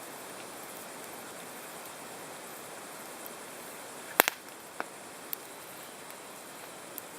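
Campfire burning: a steady hiss of flames with a few sharp crackles, the loudest a double pop about four seconds in.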